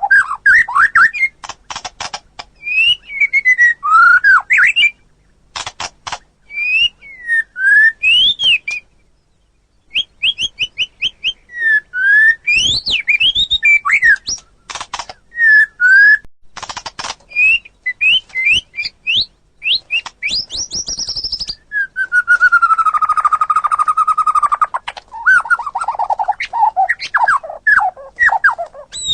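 White-rumped shama singing a loud, varied song of whistled notes and slurs mixed with rapid clicking rattles. There is a short pause about nine seconds in, and near the end a long held whistle breaks into a run of falling notes.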